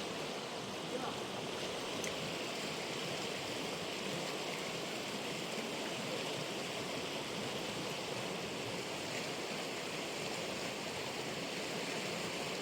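Steady rush of a fast-flowing river, an even noise with no breaks.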